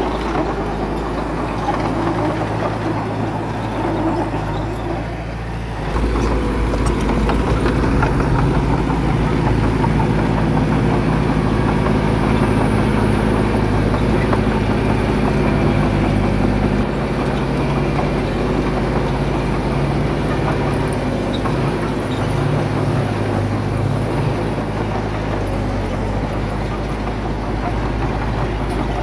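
Diesel engine of heavy earthmoving machinery running steadily under varying load. It gets louder about six seconds in and drops back a little after about seventeen seconds.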